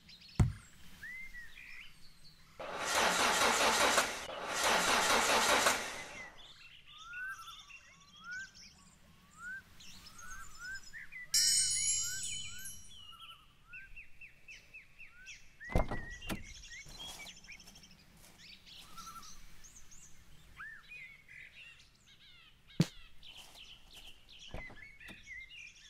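Small birds chirping over and over in short rising calls. Two loud stretches of noise, each about a second and a half long, come a few seconds in; a brief rattle comes near the middle, and a few sharp knocks come in the second half.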